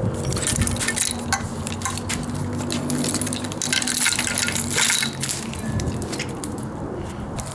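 Metal hand tools and engine parts clinking and knocking together in quick, irregular clicks as an engine is taken apart, over a steady low hum.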